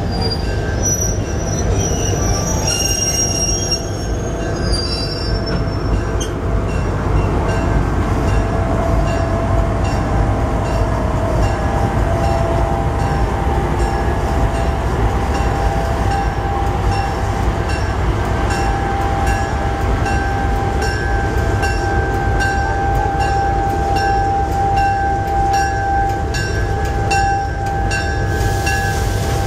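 A slow train of vintage railcars with a diesel locomotive rolling past: a steady rumble of steel wheels, regular clicking over the rail joints, and a drawn-out wheel squeal. The diesel locomotive comes by near the end.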